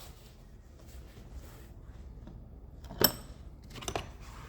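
Quiet workshop room tone broken by two metallic clinks of hand tools, the first sharp and ringing about three seconds in, the second fainter about a second later, as the engine-bay hoses are worked off.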